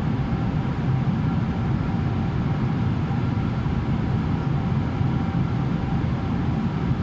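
Steady cabin noise of a Boeing 777-300ER in cruise: rushing airflow and the deep drone of its GE90 engines, with faint steady tones above the rumble.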